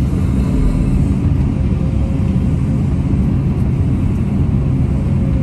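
Cat 329 excavator's diesel engine running steadily, a loud low rumble with a faint even hum.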